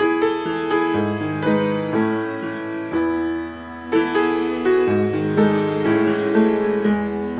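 Background piano music: slow, gentle chords and melody notes over sustained bass notes.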